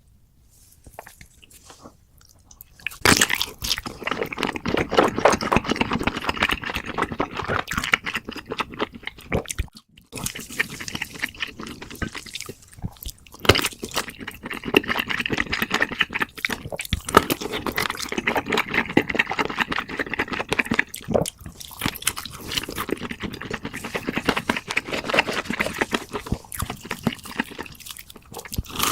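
Close-miked eating: rapid wet chewing and crunching in long stretches, starting about three seconds in and broken by a few short pauses.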